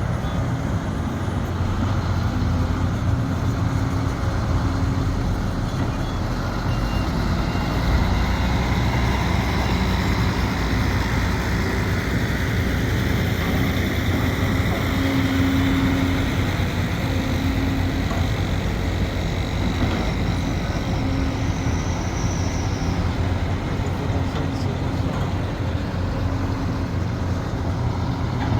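Sumitomo SH370LHD-6 hydraulic excavator's diesel engine running steadily under work, with a pitched hum that swells and fades every few seconds.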